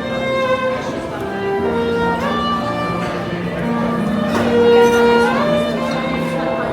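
Violin playing a melody of held notes, with an upward slide between notes about two seconds in and another around five seconds in.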